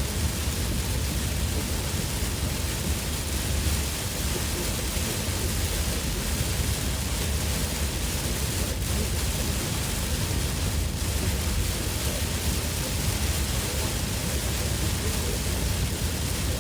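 Heavy monsoon rain pelting a moving car, heard from inside, as a steady hiss over a low road rumble.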